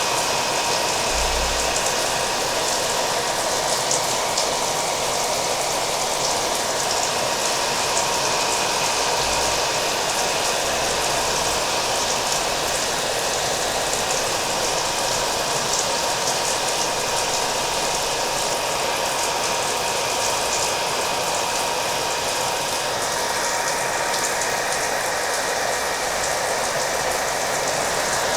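Hair dryer running steadily, its motor giving a constant whine under the rush of air, mixed with the hiss and patter of rain.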